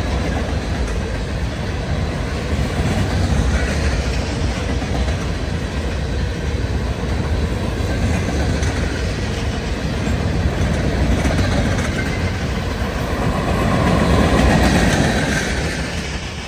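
Freight cars of a Union Pacific limestone train rolling past, steel wheels clattering on the rails with a steady rumble. The sound swells a little near the end, then begins to fall away.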